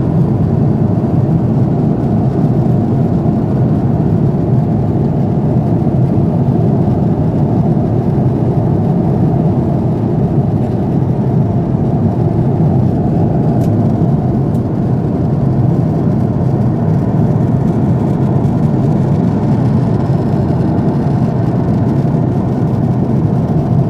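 Airliner cabin noise: the steady, even roar of the jet engines and air rushing past the fuselage, heard from inside the passenger cabin.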